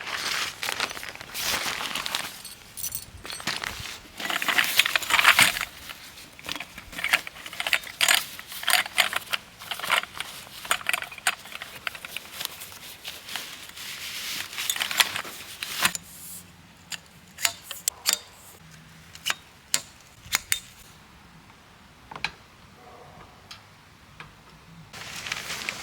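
Gear being handled: rustling and clattering with many sharp clicks and clinks, busy for the first two-thirds, then only scattered clicks, with a brief rustle near the end.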